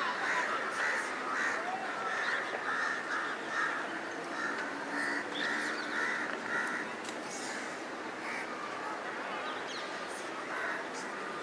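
Wild birds calling: a quick run of repeated harsh calls, about two a second, for the first five seconds or so, then only scattered chirps over background hiss.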